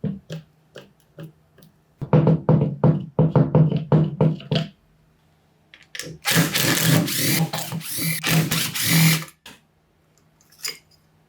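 Electric power tool running: a few separate clicks, then choppy pulses of about five a second, then a sustained run of about three seconds that stops abruptly. Short clicks follow.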